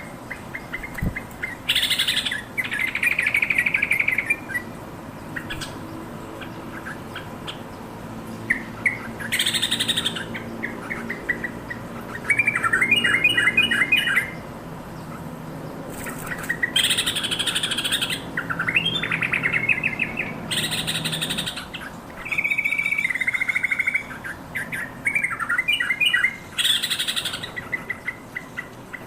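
Yellow-vented bulbul calling: rapid stuttering runs of short bubbly notes, broken every few seconds by loud harsh chattering bursts.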